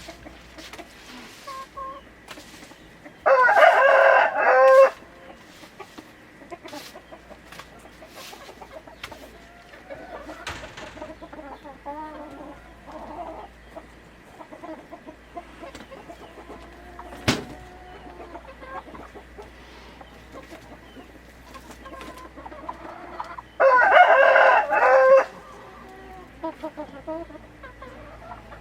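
A rooster crows twice, each crow about a second and a half long, about 3 s in and again about 24 s in, while hens cluck softly throughout. One sharp click comes about 17 s in.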